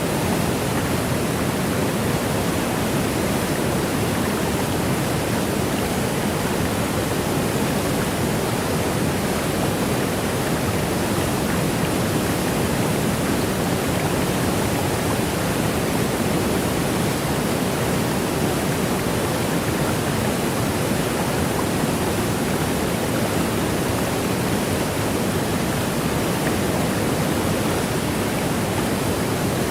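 Waterfall: a steady, even rush of falling water with no rises, breaks or single splashes, its weight lying in the lower middle.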